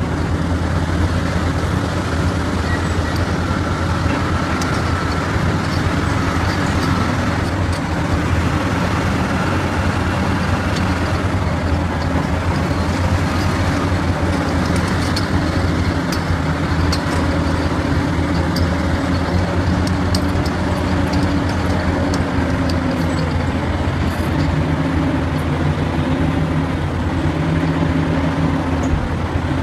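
Heavy diesel machinery engine running steadily, with scattered light clicks and knocks over it.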